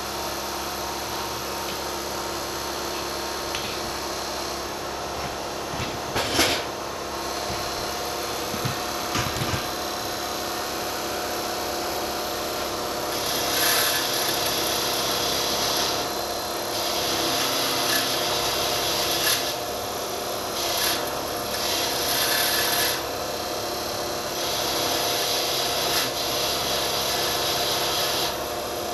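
A bench-mounted power tool's motor runs steadily while a scissor blade is pressed against its spinning wheel in several passes, each giving a loud hissing scrape. The passes clean rust and pitting off the blade. There is one sharp knock early on.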